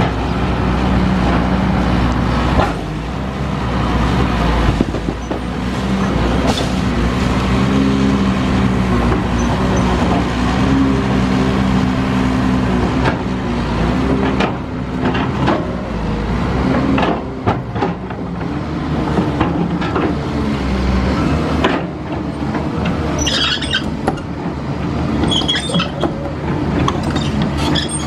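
Heavy machine's engine running with a shifting pitch, with repeated knocks and clanks throughout and high squeals in the last few seconds.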